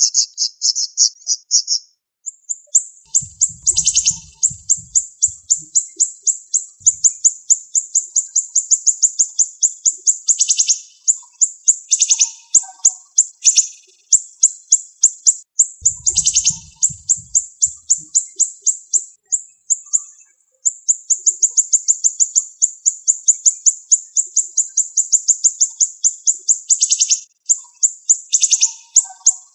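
Siri-siri songbird singing its fast 'tembakan' song: long runs of rapid, tightly packed high-pitched notes, several per second, broken by brief pauses and a few louder sharp notes.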